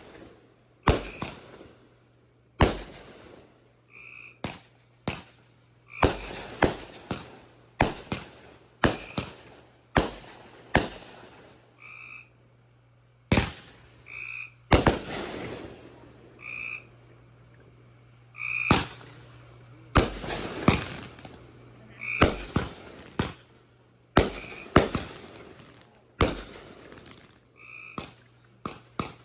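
Backyard fireworks going off: loud sharp bangs and crackles in irregular succession, about one a second, each trailing away. Between the bangs, short high chirping calls repeat every second or two.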